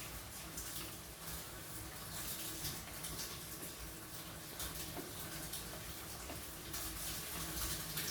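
Rain falling: a steady hiss of rain with irregular drops and drips hitting close by, over a low steady hum.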